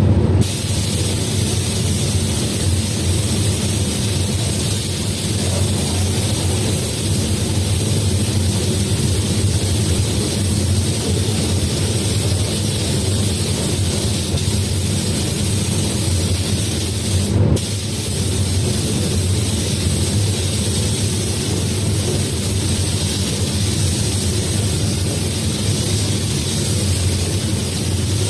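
Paint spray gun hissing steadily over a low hum, with a brief break in the spray about two-thirds of the way through.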